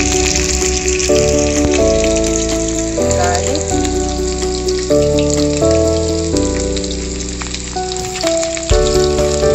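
Diced onions and garlic sizzling steadily in hot oil in a wok, over background music of held notes that change every half second or so.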